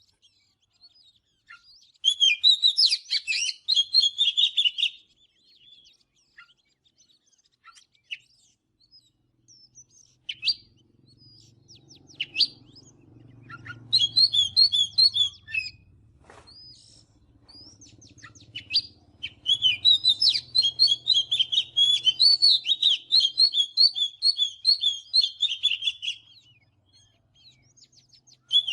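Oriental magpie-robin singing: bursts of rapid, varied chirps and whistles, with pauses and scattered single notes between them. The longest burst runs about six seconds, starting a little past the middle.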